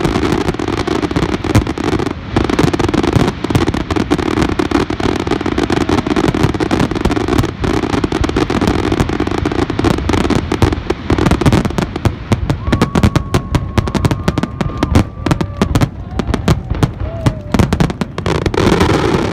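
Fireworks finale: a dense, continuous volley of aerial shell bursts, the bangs packed close together and overlapping.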